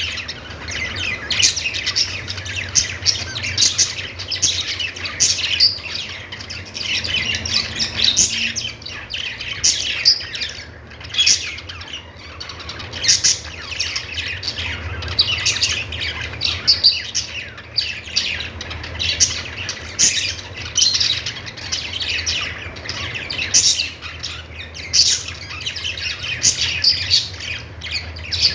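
Budgerigars (pet parakeets) chirping and warbling without pause, dense overlapping chatter broken by frequent sharp, short squawks.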